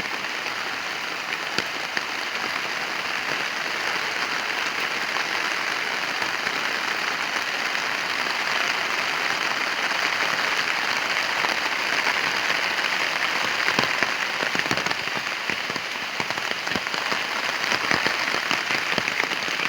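Heavy rain falling steadily, a dense hiss with many sharp drop impacts close by.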